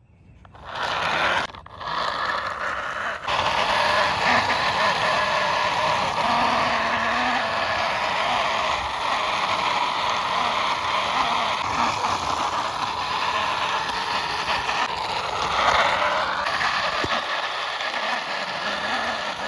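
Toy double-decker bus pushed by hand along a wall, its wheels rolling and scraping in a steady rasp, with a short break about a second and a half in.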